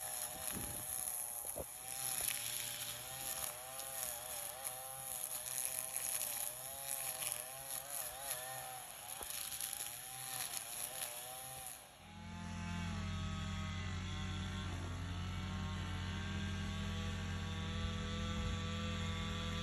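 Gas string trimmers running, their engine pitch wavering constantly as the throttle is worked. About two-thirds of the way in this gives way abruptly to a steady, deeper engine hum.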